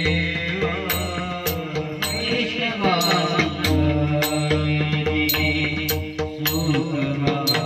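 Bhajan music: pakhawaj drum strokes and small hand cymbals striking about twice a second, under steady sustained melody tones.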